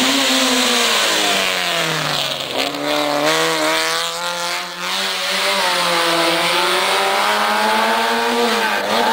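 Racing car engine revving hard, its pitch climbing and falling several times as the car accelerates, shifts and slows.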